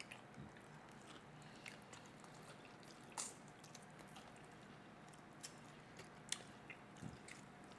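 Quiet chewing and biting into fried chicken legs: a few faint, short clicks over near silence.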